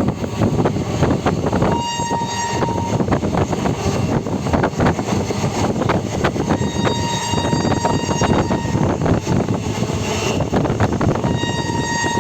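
Train running along the track with a steady rumble and wheel clatter. Its horn sounds three times: briefly about two seconds in, a long blast of about four seconds in the middle, and again near the end.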